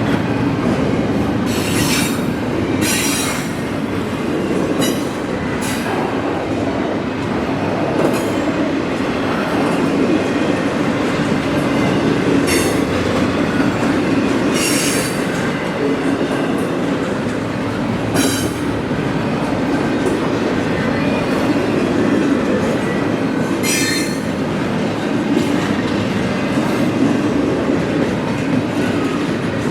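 Freight train cars rolling past with a steady rumble of steel wheels on rail, broken by brief high-pitched wheel squeals about every few seconds.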